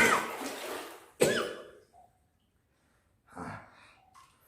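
A person coughing: two sharp coughs about a second apart, then a softer breath a couple of seconds later.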